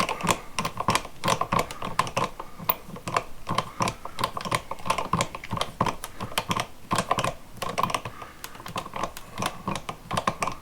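Rapid, irregular clicking and ticking as the screws of a light-switch cover plate are driven in by screwdriver.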